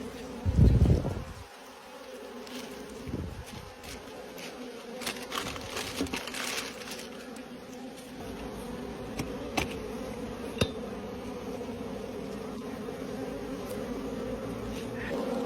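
Honey bees buzzing steadily as a mass, a continuous drone. A loud low thud comes about half a second in, with a few faint clicks later.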